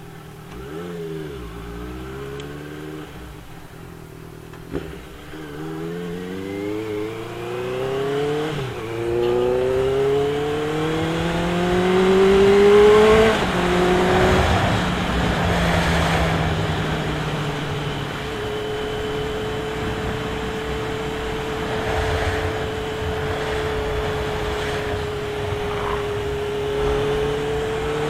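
Motorcycle engine with an aftermarket exhaust accelerating through the gears, its pitch climbing and dropping back at each of about four upshifts, then holding a steady cruise with wind rush before speeding up again near the end.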